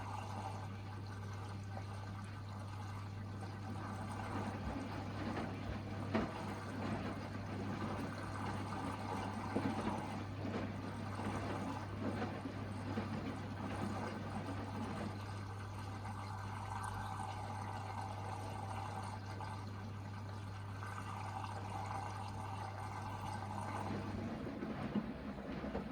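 Hoover VHD 9163 ZI washing machine taking in water for its final rinse: water rushing and pouring into the drum. A steady low hum runs under it and cuts off near the end, with a few light clicks.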